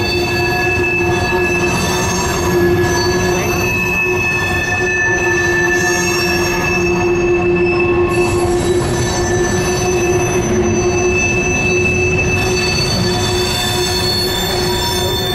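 Freight train of BNSF covered hopper grain cars rolling past, the wheels squealing steadily in several high held tones over a constant low rumble of wheels on rail.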